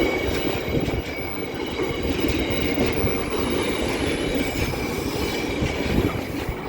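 Freight wagons behind a Class 66 diesel locomotive rolling slowly over the crossing: a steady rumble and clatter of wheels on rail joints, with high wheel squeal throughout.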